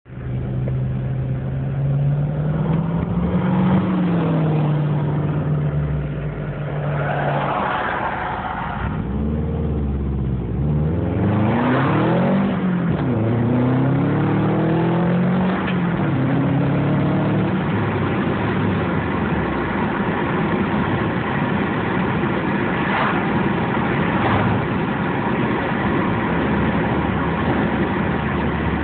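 2002 Subaru WRX wagon's turbocharged flat-four engine running at idle and revved repeatedly through the exhaust, the pitch rising and falling with each rev, before settling back to a steady run. The exhaust has a slight leak, and the revs are kept short of redline.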